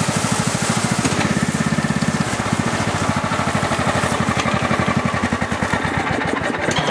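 Kubota racing tractor's engine running steadily through its stock exhaust as the tractor is driven, a fast even pulsing of the engine's firing.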